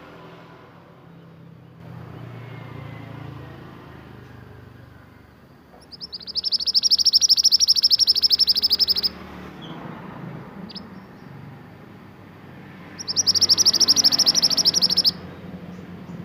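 A mantenan songbird singing two loud, very fast trills of rapidly repeated high notes: the first about three seconds long, the second about two seconds, a few seconds apart. A faint low rumble sits underneath.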